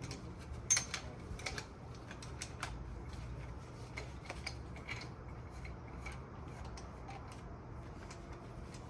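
Scattered light clicks and taps of metal parts being handled as a 6-inch SDS Max core bit is fitted to its extension, over a low steady hum.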